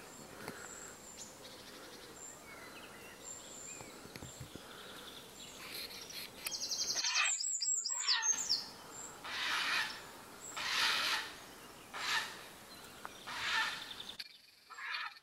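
Birds calling among the trees: faint high twittering at first, then from about halfway a series of louder calls repeated roughly once a second.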